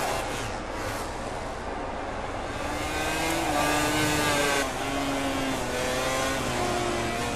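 MotoGP racing motorcycles' engines at full race pace, their pitch rising under acceleration and falling on shifts and braking, with several bikes heard at once. The loudest, highest run comes about four seconds in and then drops away suddenly.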